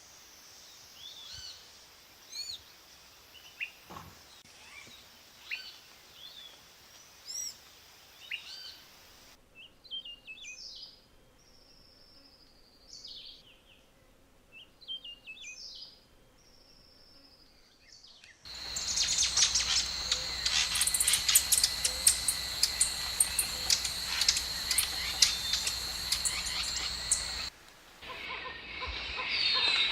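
Wild birds calling in three successive takes. First comes a series of short arching chirps, then a run of down-slurred whistled notes. About two-thirds of the way through, a louder dense chorus of many quick chattering calls starts over a steady high tone.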